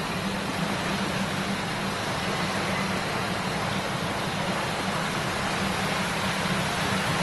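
Shallow river babbling, a steady rush of flowing water.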